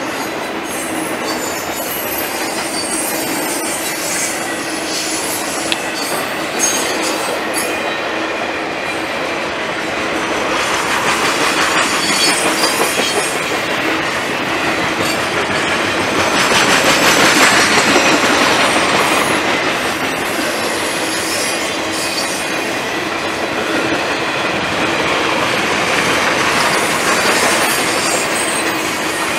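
Triple Crown RoadRailer trailers rolling past on their rail bogies: a steady rush of wheels on rail with high wheel squeal, swelling louder twice as the cars go by.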